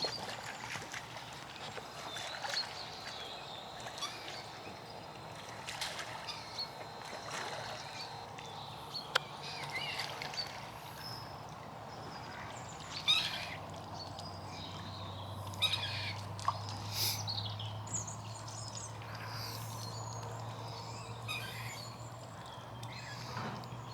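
Birds chirping and ducks on a pond, with light splashing. A low drone of a distant airplane builds from about halfway through.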